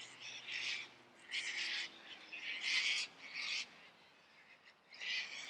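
Eurasian coot giving a series of short, harsh calls, each about half a second long, with pauses between them.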